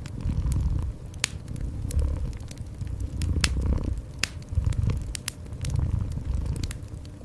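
A cat purring in a low, rhythmic rumble that swells about once a second, with a wood fire crackling over it in sharp, irregular pops.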